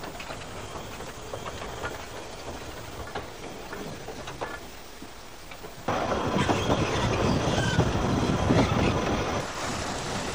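Talyllyn Railway narrow-gauge train running, its wheels clicking over the rail joints. About six seconds in, a sudden louder close-up rumble and clatter of wheels on track takes over.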